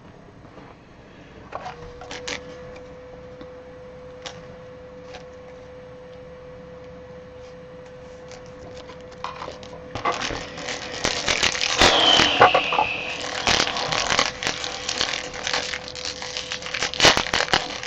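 Trading card box packaging being handled and opened: scattered clicks and rustling at first, becoming dense crinkling, scraping and tearing about ten seconds in, with one short falling squeak. A faint steady hum runs underneath.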